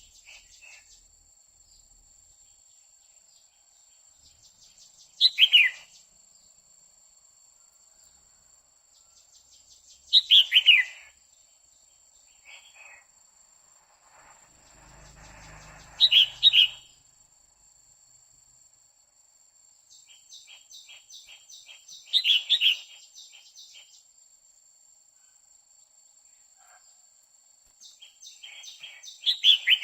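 Female red-whiskered bulbul calling: five loud, short, falling calls, one every five or six seconds. Under them runs a steady high whine, with trains of rapid cricket-like ticking near the middle and again near the end.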